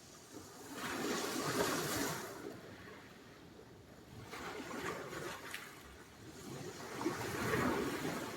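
Sea surf: three waves break and wash up the shore one after another, each a swell of rushing hiss that rises and falls away, with a short fizzing in the middle one.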